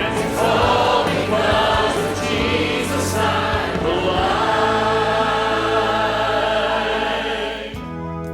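Church choir singing a gospel hymn with instrumental accompaniment; the held final chord stops sharply about a second before the end, and a quieter instrumental passage of separate notes begins.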